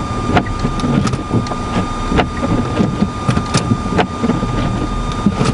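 Car engine running while the car is stuck in deep snow drifts, with a steady high tone and scattered irregular clicks and knocks over it.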